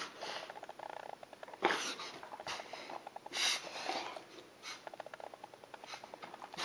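Great Pyrenees dog reverse sneezing: runs of rapid fluttering pulses as it pulls air in hard through its nose, many a second, broken by louder breathy gasps about two seconds in and again near the middle. It is a spasm of the soft palate and throat.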